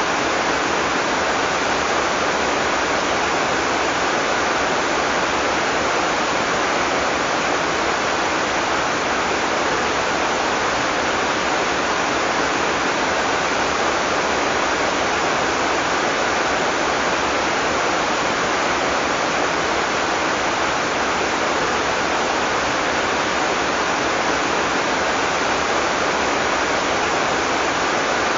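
Heavy tropical rain falling in a steady, unbroken hiss, with no thunder.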